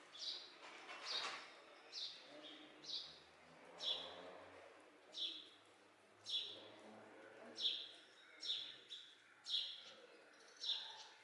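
A bird chirping over and over: short, high calls that slide downward, about one a second at uneven spacing.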